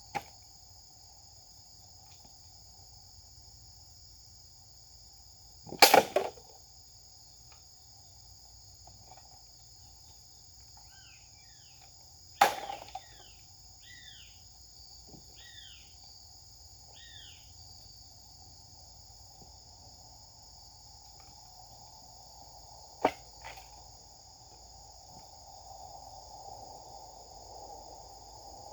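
Japanese sword swung in test cuts: three sharp swishes, a double one about six seconds in that is the loudest, another about twelve seconds in and a lighter one near twenty-three seconds. Under them insects drone steadily, and a bird gives a short series of falling chirps between the second and third cuts.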